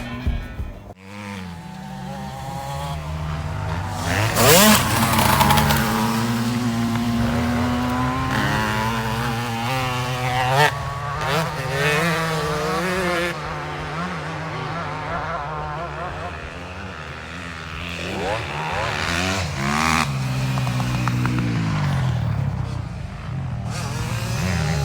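Motocross bike engine being ridden hard, revving up and easing off over and over, its pitch climbing and dropping.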